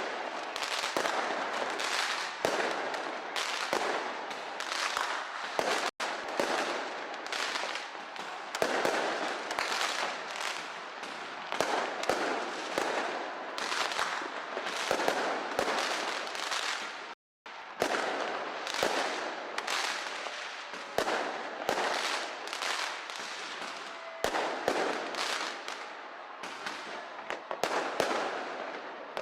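Fireworks display: a continuous barrage of bangs and crackling bursts, cutting out for a split second about seventeen seconds in.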